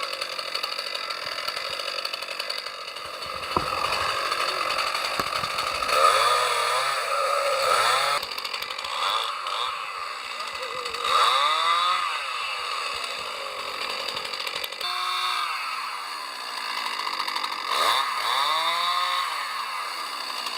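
Chainsaw running, its engine revving up and dropping back about four times as it cuts.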